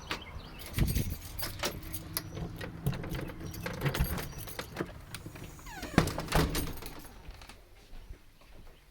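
Keys jangling and a door being unlocked and opened, with a string of clicks and rattles and two heavier thuds, about a second in and about six seconds in.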